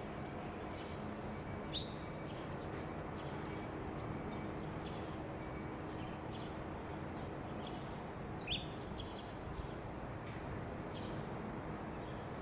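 Small birds chirping now and then: a handful of short, high chirps, some sliding down in pitch, over a steady outdoor background hum.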